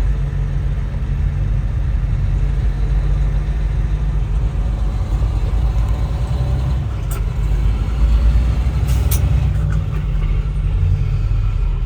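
Steady low rumble of a truck's engine and road noise heard inside the cab, with a few faint clicks around seven and nine seconds in.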